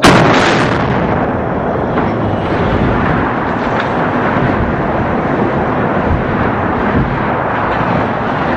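A sudden, loud blast from bridge demolition charges, followed by a heavy rumble that continues for several seconds.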